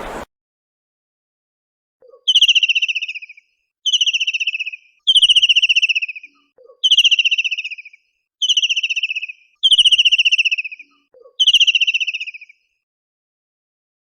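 A bird calling seven times, about every one and a half seconds: each call is a fast, rattling trill that slides down in pitch and lasts about a second.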